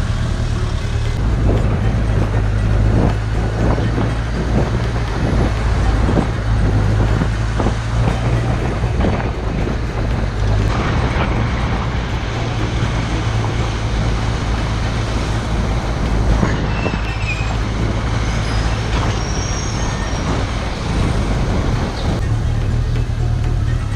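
Motorcycle running steadily on the road, a continuous engine drone with road noise.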